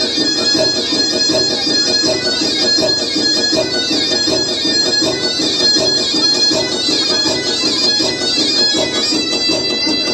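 Tulum, the Black Sea bagpipe, playing a fast repeating dance tune over a steady drone.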